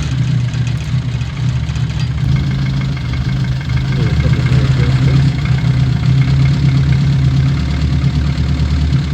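Classic Austin Mini Cooper's four-cylinder engine idling steadily.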